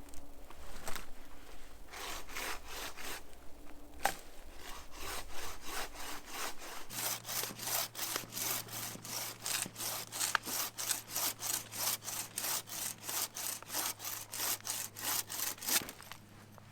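Handmade wooden frame saw cutting through wood: a few slow, uneven strokes with a single sharp knock about four seconds in, then a steady rhythm of about two to three strokes a second that stops shortly before the end.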